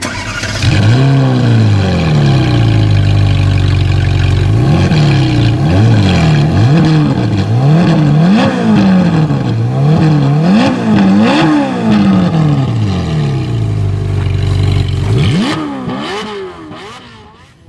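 Ferrari 458 Spider's 4.5-litre V8 starting up and flaring, then settling to idle. It is then revved in a run of about eight quick throttle blips before dropping back to idle. One last blip comes near the end, and then the engine sound dies away.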